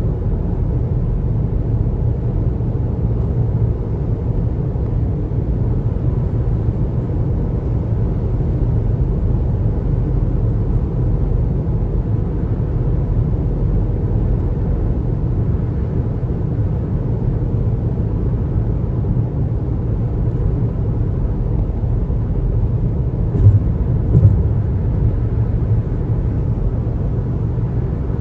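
Steady low rumble of a car driving at road speed: tyre and road noise. Near the end come two short thumps less than a second apart, the loudest sounds here.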